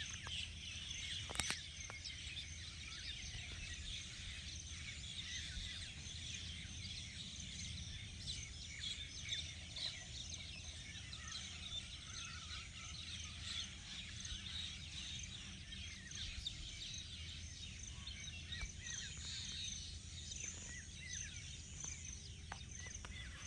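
Many birds chirping continuously over a steady low rumble, with one sharp click about a second and a half in.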